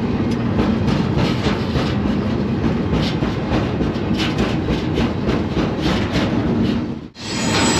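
Freight train riding: steady rumble with rapid, irregular metal clanking and rattling of the car, heard from on board. Near the end the sound drops out abruptly for a split second, then resumes with a thin high ringing over the rumble.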